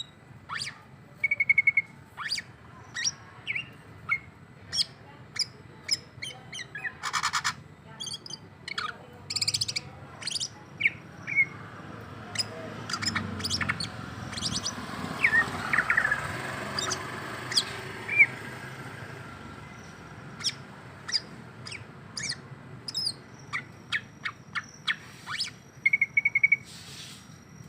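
Cucak ijo (green leafbird) singing in an agitated run of short, sharp chirps and brief trills, with uneven gaps between them. A low rushing noise swells and fades in the middle.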